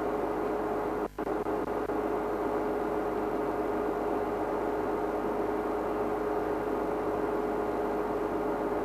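A steady, even hum, with a brief dropout about a second in.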